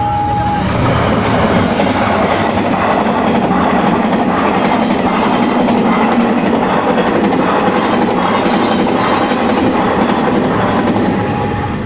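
Train passing close by, its wheels clattering over the rail joints in an even rhythm. A two-tone level-crossing warning alarm sounds at the start and again near the end.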